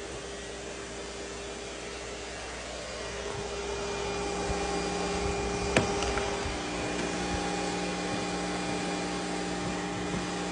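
FurMe pet grooming vacuum running steadily with a motor whine, growing a little louder after a few seconds; a single sharp click comes about six seconds in, after which the whine's pitch shifts slightly.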